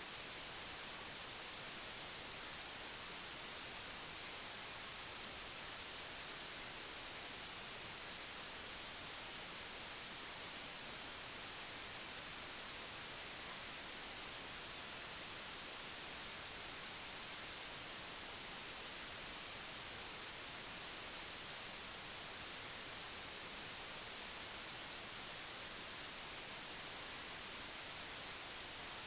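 Steady, even hiss like static, unchanging throughout, with no other sound standing out.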